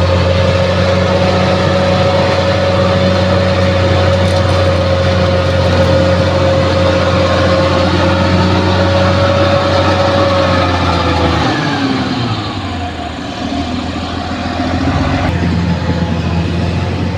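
Bulldozer's diesel engine running hard with a steady whine over it. About eleven seconds in, the engine note falls and quietens, then picks up again near the end.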